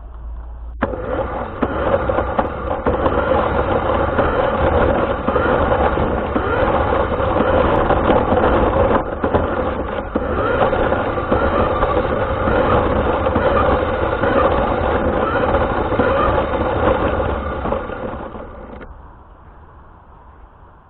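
RC car driving, its motor and wheels on the ground picked up by the car's onboard camera: a loud rough running noise with a steady hum. It starts abruptly about a second in and drops away near the end.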